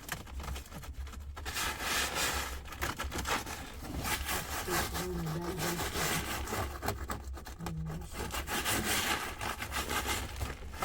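Repeated rasping, scraping strokes of a tool working on a rough material, coming in uneven surges over a low steady rumble.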